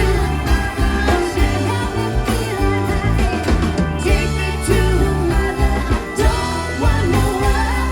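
Rock band playing live: guitar over bass and drums, with a steady beat.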